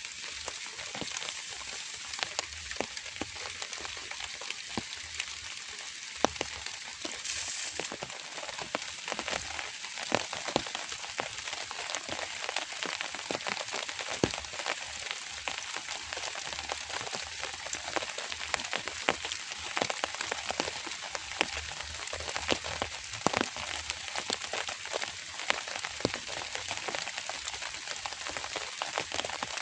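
Light rain falling: a steady hiss with many sharp, irregular taps of drops striking a surface.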